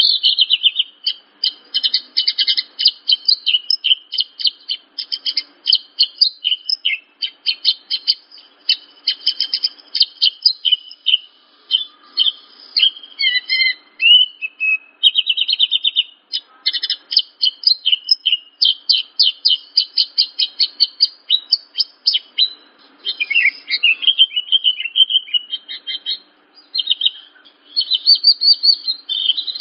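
Javan bush lark (branjangan) singing: long runs of fast, high chirps and rattling trills, broken now and then by short pauses.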